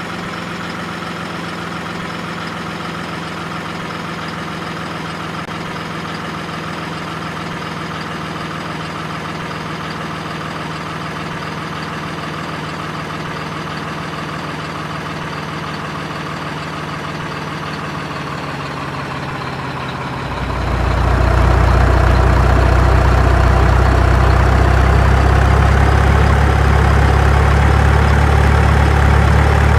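An engine idling steadily with a low, even hum. It grows much louder and deeper about two-thirds of the way through, then holds steady.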